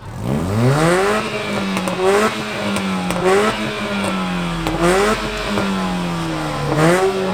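A car engine revved hard through its exhaust for an exhaust loudness contest. The pitch climbs quickly in the first second, then is held high with four short throttle blips.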